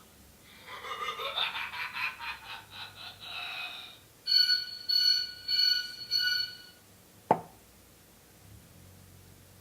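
A fast pulsing, laugh-like sound for about three seconds, then four electronic beeps, each made of several steady tones, and a single sharp click.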